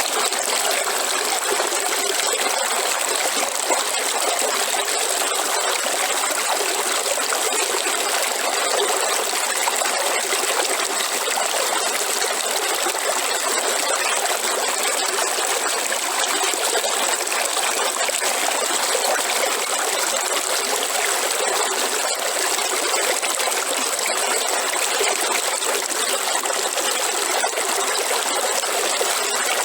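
Waterfall: a steady, unbroken rush of falling water, even throughout with no breaks or changes.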